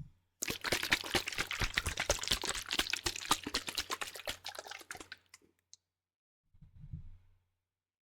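Liquid sloshing and splashing inside a plastic spray bottle: about five seconds of dense, irregular crackling, then a brief low rumble of handling near the end.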